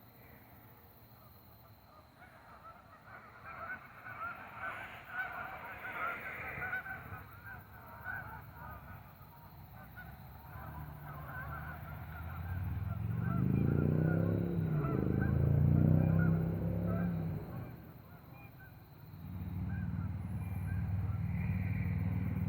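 Many distant bird calls chattering, then a louder low engine-like sound about halfway through whose pitch rises and falls as it passes, and a low rumble near the end.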